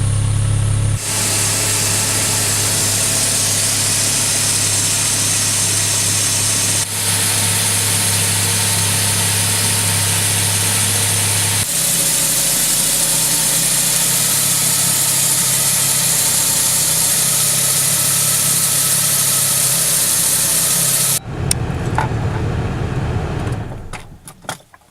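Saab 9-3 2.0i naturally aspirated engine idling steadily, heard in several cut-together stretches. Near the end a rougher, uneven sound takes over and then fades away.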